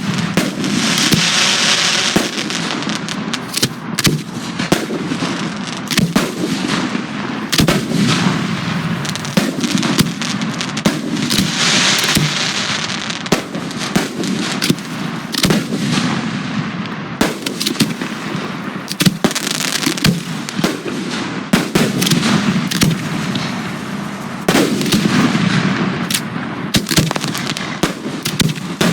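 Professional fireworks display firing continuously: many loud, sharp bangs from shells launching and bursting, overlapping each other. There are two stretches of dense crackling, about a second in and again around twelve seconds in.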